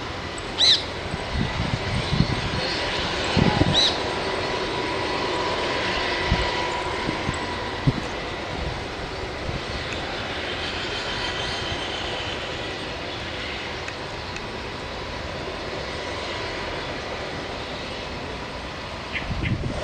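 UH-60 Black Hawk helicopter's twin turbine engines and rotor running steadily, with a faint steady whine. A few brief squeaks and thumps come in the first few seconds.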